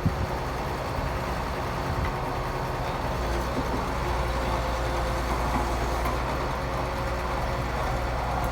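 Heavy diesel engine of earthmoving machinery running steadily, a low drone.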